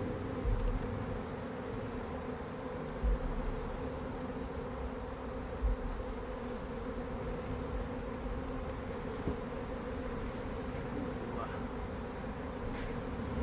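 Honeybees buzzing steadily around an opened hive during a frame inspection, with a few dull low bumps about three and six seconds in.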